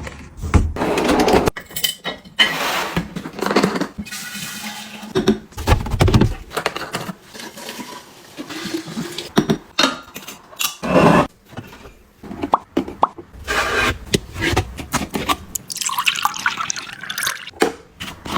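Objects and packaging being handled close up: an irregular run of taps, clicks and rustles.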